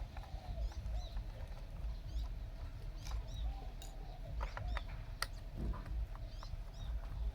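Small birds chirping repeatedly in short high calls, over a constant low rumble, a faint steady hum and a few sharp clicks.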